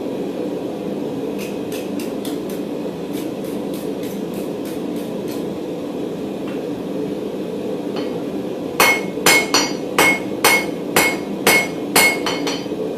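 Hand hammer striking hot mild steel bar on an anvil while drawing out a point. A run of light taps in the first half, then about ten heavy blows at roughly two a second near the end, each with a short ring.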